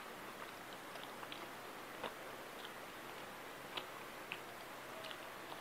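Person chewing food close to a clip-on microphone: faint, irregular wet clicks and smacks of the mouth, about a dozen over a few seconds.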